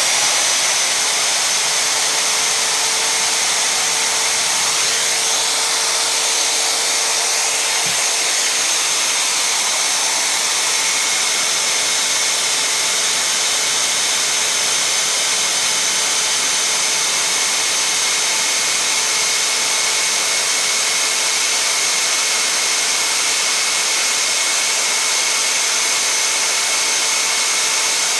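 Magnetic drill press boring through thick metal plate: the motor runs steadily under load, giving a loud, even whine with a harsh cutting hiss.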